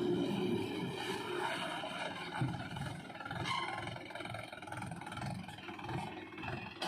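Diesel engine of a JCB 3DX backhoe loader running under load while it digs and loads mud, with a pulsing rhythm in the engine note and a single sharp knock about two and a half seconds in.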